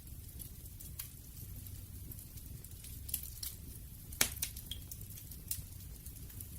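Wood fire crackling: scattered sharp pops and snaps over a low steady rumble, with the loudest pop about four seconds in.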